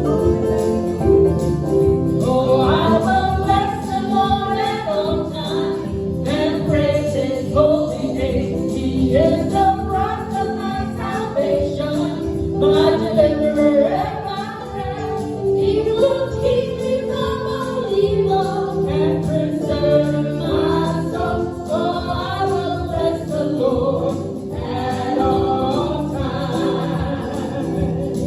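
Gospel song: voices singing over a steady instrumental backing, the singing coming in about two seconds in.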